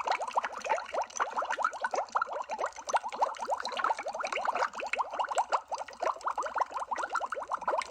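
Underwater bubbling: a dense, continuous stream of small bubbles, each a short blip gliding in pitch, many to the second.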